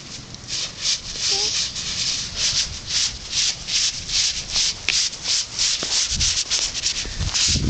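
Footsteps crunching in a thin layer of snow, a quick, even stride of about two to three steps a second beginning about half a second in.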